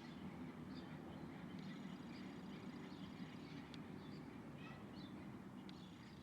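Faint chirps and calls from small birds, including a quick dotted trill, over a steady low hum.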